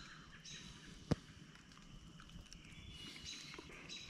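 Birds chirping in short repeated phrases, with one sharp click about a second in.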